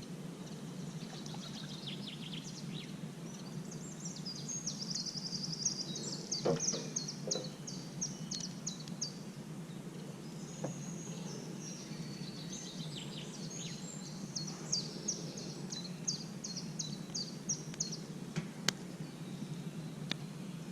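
A songbird singing long runs of quick, high chirping notes over a steady low background rumble, with a few sharp clicks mixed in.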